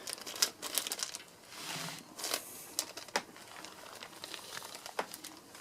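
Packaging crinkling and rustling, with scattered clicks and taps from handling.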